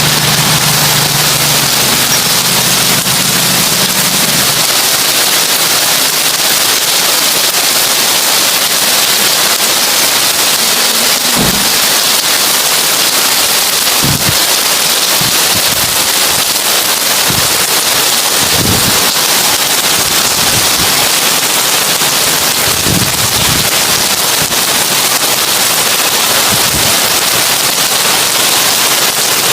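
Heavy rain falling on a tin roof: a dense, steady hiss of drops on metal, with a few low thumps scattered through it.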